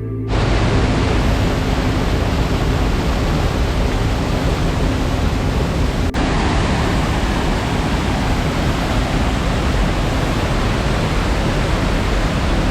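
Waterfall running in heavy flow after rain: a loud, steady rush of falling water.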